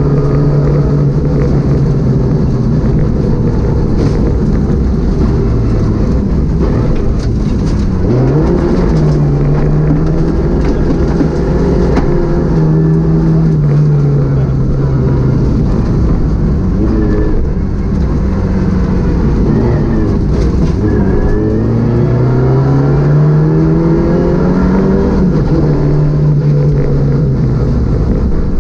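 Citroën Saxo VTS rally car's 1.6-litre 16-valve four-cylinder engine driven hard on a stage, its note climbing under acceleration and dropping sharply at gear changes and lifts several times, over steady road and tyre noise.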